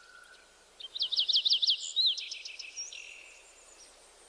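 A songbird singing a quick run of repeated high notes about a second in, ending with a short downward-sliding note, over faint outdoor background noise.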